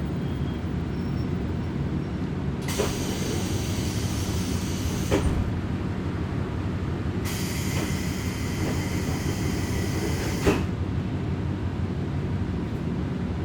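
Diesel railcar running, heard from inside the car as a steady low engine and rolling rumble. It is broken by two bursts of high hissing noise a few seconds each, the first about three seconds in and the second past the middle, each ending in a sharp clack.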